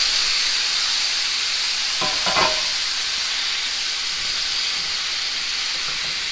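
Cubed yellow squash sizzling in hot olive oil in a skillet, a steady high hiss, as the chunks are stirred with a wooden spoon. A short louder sound comes about two seconds in.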